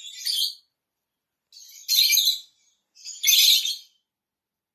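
Small birds chirping in three short, high-pitched bursts.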